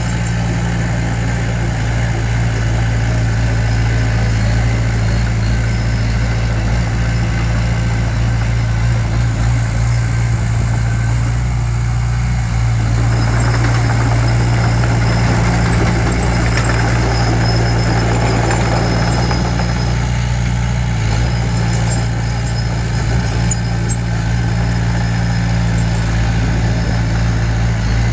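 Diesel engine of heavy earthmoving equipment running steadily with a low, even hum. About halfway through, a rougher noise rises for several seconds and then fades.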